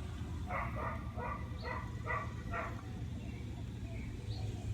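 An animal's short pitched calls, about six in quick succession at roughly two a second, over a steady low hum.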